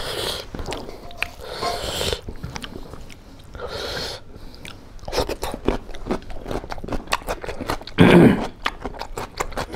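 Close-miked mouth sounds of a man eating rice and pork curry by hand: chewing with a run of wet clicks and lip smacks, plus a louder burst about eight seconds in.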